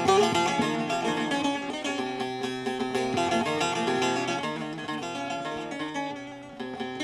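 Instrumental music played on a plucked string instrument, a quick run of changing notes with no singing.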